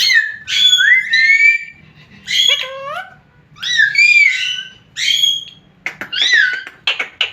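Pet parrot giving a series of short whistling calls that glide up and down in pitch, about six in all with pauses between them, followed near the end by a quick run of clicks.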